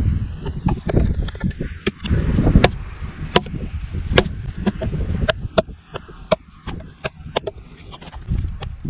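A wooden baton repeatedly strikes the spine of a small N690 steel fixed-blade knife, the Messerfieber Woodpecker, which is wedged in a very hard piece of wood. There are sharp knocks about two a second, and several leave a short metallic ring from the blade. The blade does not get through the wood.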